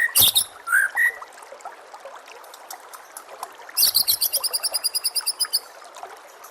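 White-rumped shama singing: loud whistled, sliding notes and a sharp call in the first second, then after a pause a fast rattling trill of about a dozen notes a second lasting nearly two seconds, over a faint trickle of running water.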